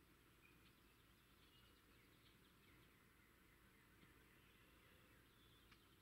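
Near silence with faint bird calls: scattered short chirps and a few brief whistled notes over a low hiss, and a soft tick near the end.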